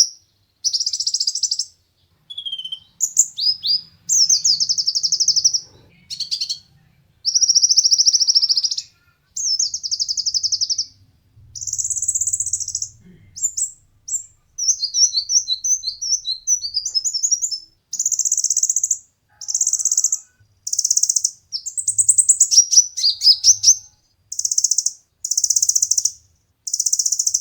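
Ruby-cheeked sunbird (kolibri ninja) singing: high, thin, rapidly trilled phrases about a second long, repeated again and again with short gaps, with a jumbled run of quick notes near the middle.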